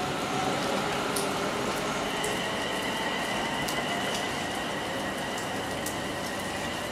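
A train running steadily at a station: a continuous hiss with a few faint, steady whining tones.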